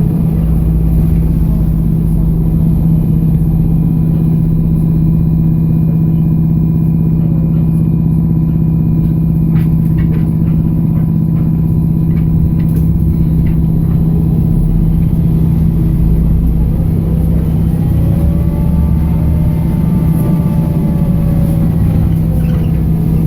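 BKM-321 trolleybus running along the street: a steady low electric drive hum over road rumble, with a few short clicks and rattles around the middle. Near the end a whine glides up and down in pitch as the trolleybus changes speed.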